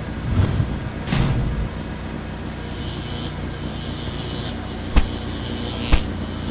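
Cartoon car engine sound effect running steadily, with two sharp knocks about five and six seconds in as one car rams the other.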